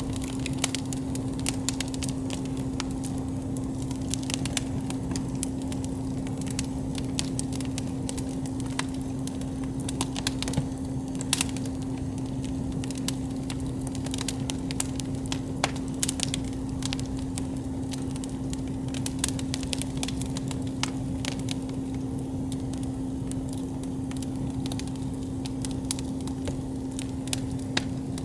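Wood campfire crackling, with frequent irregular sharp pops and snaps over a steady low hum.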